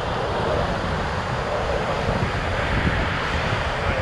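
Wind buffeting the microphone over a steady wash of surf breaking on the beach, with faint voices in the background.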